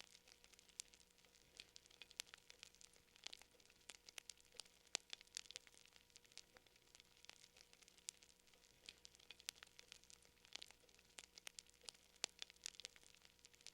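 Fire crackling faintly, with irregular quick pops and snaps scattered throughout.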